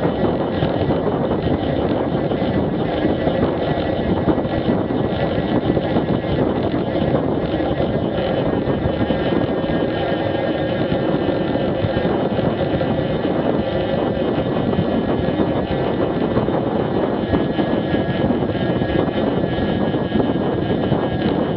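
Street motorcycle riding at a steady cruise: the engine drones under a heavy rush of wind over the mounted action camera, with no change in pace.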